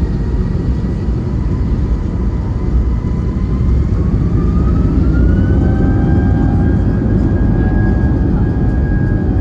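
Airbus A320-232's IAE V2500 turbofan engines heard inside the cabin: a heavy, steady rumble with a whine that rises in pitch about halfway through and then holds steady as the noise grows a little louder, the engines spooling up toward takeoff thrust.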